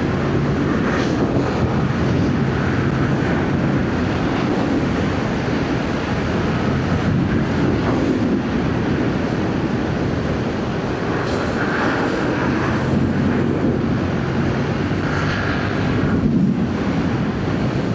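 Wind rushing over the microphone while riding a Yamaha MT-07, with the bike's parallel-twin engine running underneath; the engine's low hum comes through more plainly at times.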